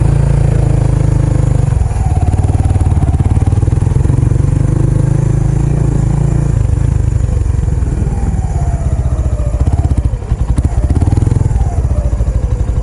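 Kawasaki Estrella's single-cylinder four-stroke engine running through a Yamato aftermarket muffler, a steady, loud pulsing exhaust note whose pitch rises and falls a few times as the revs change.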